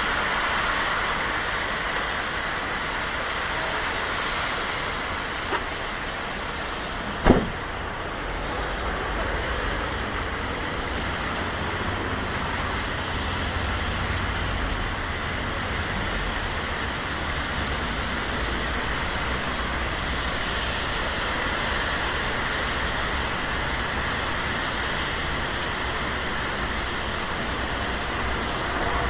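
Steady rain with car traffic hissing along a wet city street. A single sharp click sounds about seven seconds in.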